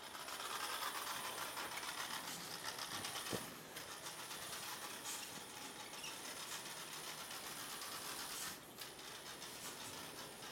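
Small battery-powered toy car's electric motor and gears running with a steady whirring rattle as it drives along the floor, easing off briefly twice.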